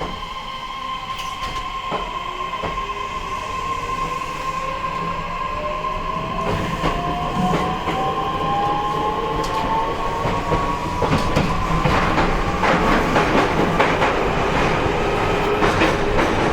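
Onboard running sound of an E131 series electric train's motor car: the traction motor and inverter whine rises steadily in pitch as the train picks up speed. Wheel and rail noise grows louder, with scattered clicks from the track.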